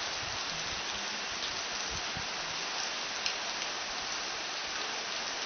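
Rain falling steadily during a tropical thunderstorm, an even hiss, with one faint tick about three seconds in; no thunder is heard.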